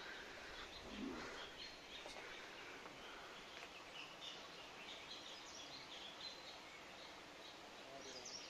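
Faint outdoor ambience with small birds giving many short, high chirps, several a second. A brief low sound about a second in.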